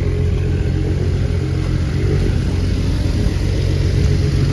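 BMW 335is's N54 straight-six, converted to a single turbo, running at steady revs with no revving.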